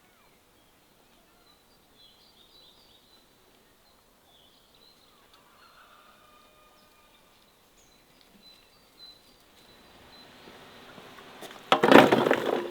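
Faint birds chirping in the background. Near the end a rushing noise builds and peaks in a loud, short burst.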